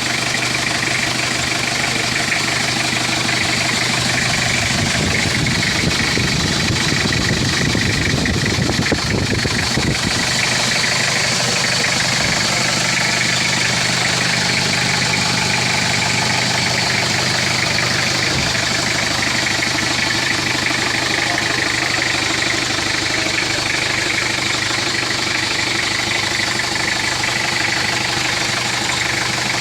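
Toyota Revo's 2L 2.4-litre four-cylinder diesel engine idling steadily, with a stretch of extra low rumble about five to ten seconds in.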